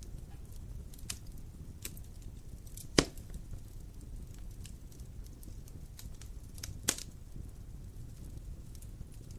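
Wood fire burning with a low steady rumble and scattered small crackles, and two sharp, loud pops, about three seconds in and just before seven seconds.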